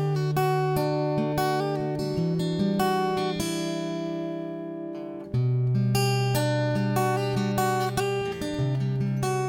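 Background music: acoustic guitar picking notes over sustained bass notes, with fresh chords struck just after the start and again about five seconds in.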